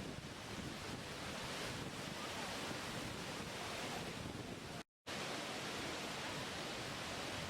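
Steady rushing water, an even hiss that breaks off to silence for a split second about five seconds in.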